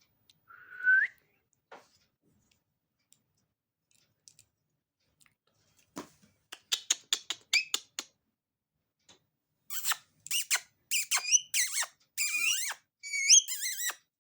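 Indian ringneck parrot: a short rising whistle near the start, a quick run of sharp clicks about six seconds in, then a string of harsh squawks and chatter through the last few seconds.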